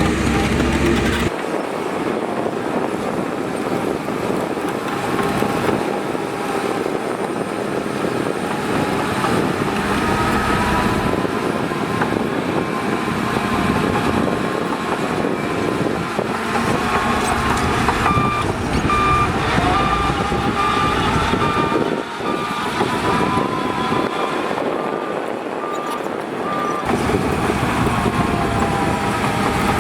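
Heavy diesel earthmoving machinery running: bulldozer and dump truck engines at work. A vehicle's reversing alarm beeps steadily for several seconds past the middle.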